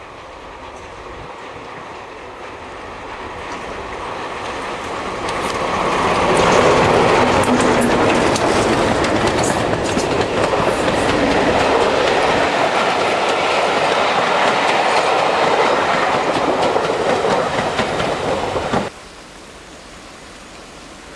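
Diesel-hauled train approaching and passing, growing louder over the first six seconds, with wheels clattering over rail joints. The sound cuts off suddenly near the end, leaving a quieter steady rushing noise.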